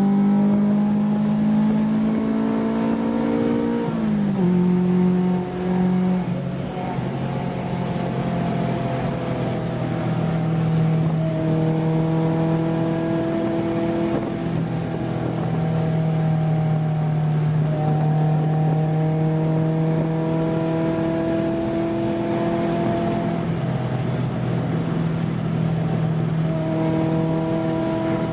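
Honda B16 four-cylinder engine in a Civic, running through a cheap aftermarket eBay exhaust while the car is driven. Its pitch climbs slowly and drops back several times, as with gear changes or lifting off the throttle.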